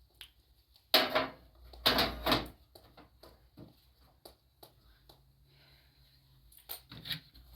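Household objects being handled: two loud clattering knocks, about one and two seconds in, then small scattered clicks and taps.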